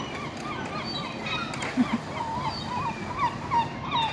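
A flock of water birds calling, many short calls overlapping one after another, over steady outdoor background noise.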